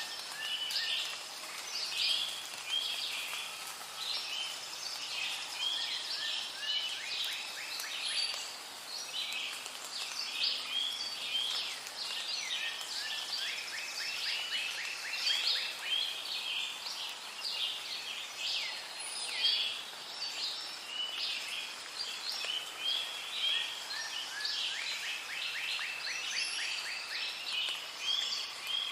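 Rainforest ambience: a dense chorus of many birds calling over one another, short chirps and whistles with rapid trills now and then, over a faint steady hiss.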